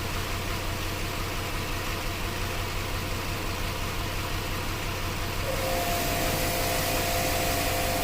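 2008 Jeep Grand Cherokee's 5.7 L Hemi V8 idling rough, misfiring on cylinders 4, 6 and 7, which the engine computer is holding deactivated through the MDS cylinder-deactivation system. About five and a half seconds in, a steady whine with a rushing hiss joins the engine.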